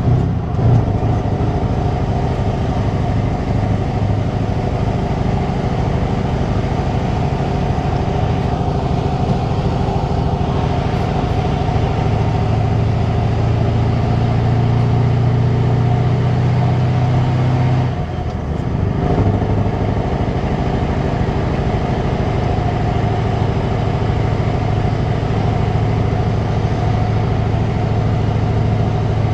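Scania 164 480's V8 diesel engine running through a straight exhaust, a steady deep note. The note builds a little, dips briefly about 18 seconds in, then picks up again.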